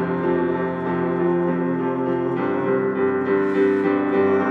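Piano or electric keyboard playing sustained chords between sung lines of a song.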